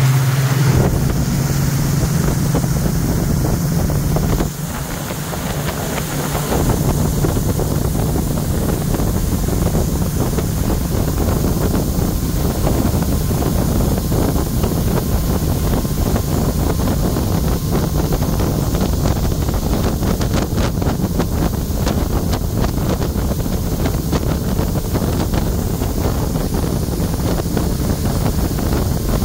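Tour boat under way, its engine running with wind buffeting the microphone. A steady engine hum is clear for the first few seconds, then rumbling wind noise covers most of it.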